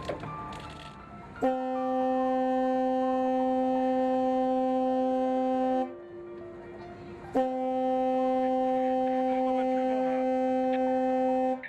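Ship's horn sounding two long, steady blasts of about four seconds each, with a short gap between them.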